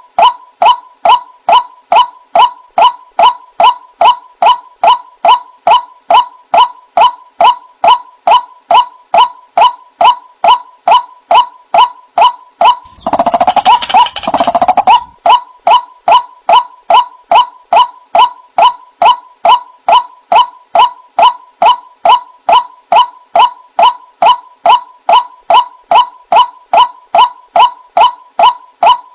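White-breasted waterhen calling: a steady, even series of short croaking notes, about two to three a second, with a brief burst of more hurried, overlapping calls around the middle.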